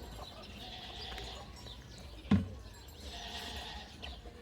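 Faint sounds of a livestock flock, with a single sharp knock a little past two seconds in, the loudest sound.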